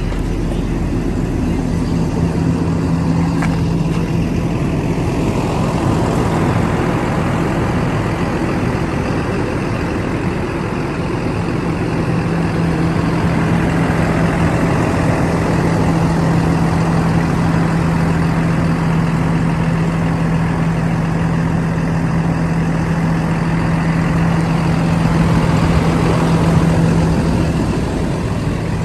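2014 Blue Bird TC/3000 school bus engine idling steadily with an even hum, swelling slightly near the end.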